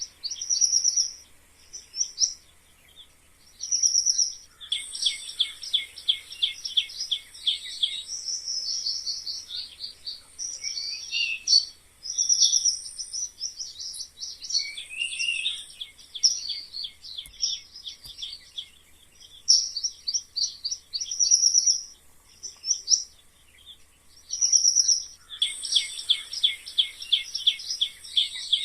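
Mice squeaking: fast runs of short, high-pitched squeaks mixed with single chirps. A dense run about five seconds in comes back near the end.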